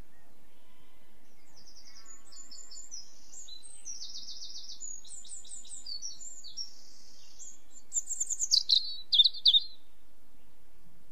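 Birds singing: a run of varied high chirps and quick trills, louder near the end.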